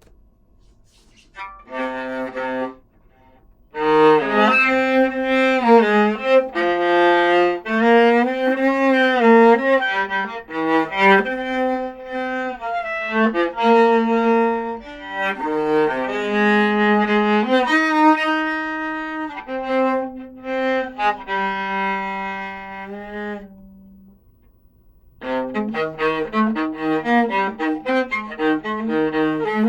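Solo viola bowed, playing a melody in sustained notes: a short opening phrase, a long phrase, a pause of about a second, then more playing near the end.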